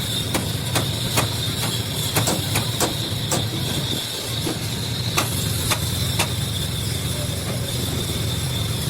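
A steady low mechanical hum with a steady high whine over it, and irregular sharp metallic clicks and taps throughout.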